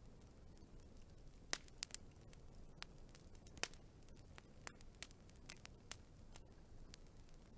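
Wood fire crackling: irregular sharp pops and snaps from the burning logs, a couple of louder ones about one and a half and three and a half seconds in, over a low steady rumble.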